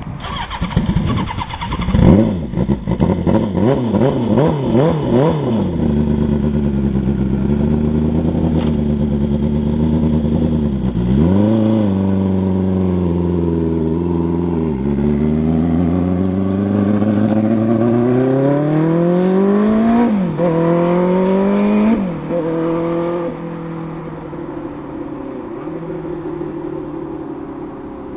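Turbocharged Suzuki Bandit motorcycle's inline-four engine revved in quick blips, then running steadily. It then pulls away, accelerating with a rising pitch and dropping at two gear changes, and fades as the bike rides off.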